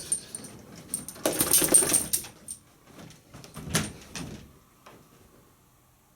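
A Saint Bernard moving about and rummaging: a run of scrapes, clicks and rattles, loudest in a dense burst between one and two seconds, with a sharp clatter near four seconds.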